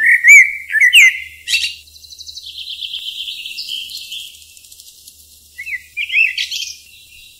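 Songbirds chirping: short whistled notes, loudest in the first second and a half, then a fast trill, with more chirps about six seconds in.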